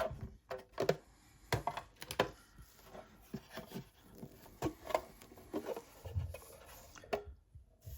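Irregular light clicks and knocks of small plastic scale models being handled and set down on a tabletop.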